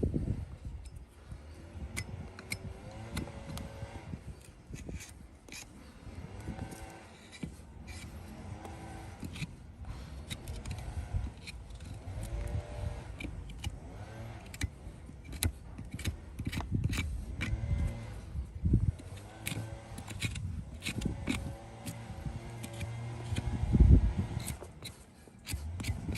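Farrier's hand tools working a horse's hoof: irregular clicks and scrapes over a low rumble, with one heavy thump near the end.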